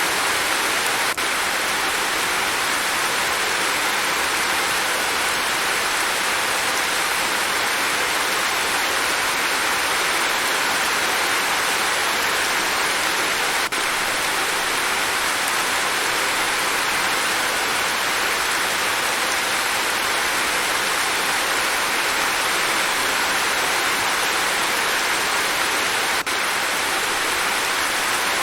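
Steady, continuous rain: an even hiss with no single drops or other sounds standing out.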